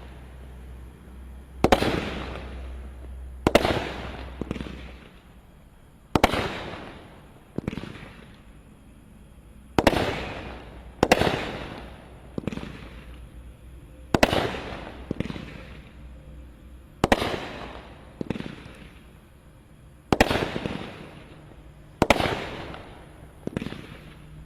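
Consumer fireworks cake (350-gram repeater) firing shot after shot: a sharp bang roughly every one to two seconds, sometimes two close together, each trailing off over about a second.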